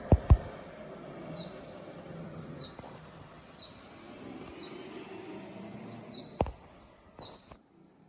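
A short high chirp repeating roughly once a second, like a cricket, over a low rumbling background. Three sharp thumps are the loudest sounds: two in quick succession at the start and one about six seconds in. Most of the sound cuts off abruptly near the end.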